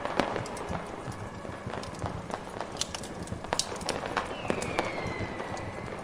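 Layered fireplace, fireworks and snowstorm ambience: irregular sharp crackles and pops over a steady hiss of wind-driven snow. About four and a half seconds in, a thin whistle glides down in pitch for about a second.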